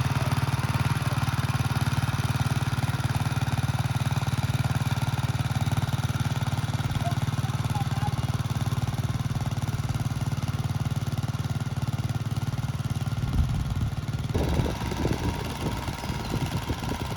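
Tractor engine running steadily with an even low firing pulse; about fourteen seconds in, the sound turns rougher and more uneven in the low end.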